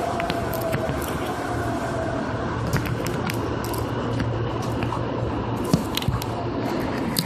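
Seibu 2000 series electric commuter train running at speed: a steady rumble and hum with a few short clicks and knocks scattered through.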